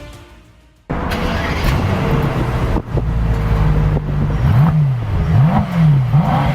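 Mercedes-AMG E63 S twin-turbo V8 idling, then revved in three quick blips, the pitch rising and falling each time, from about halfway in.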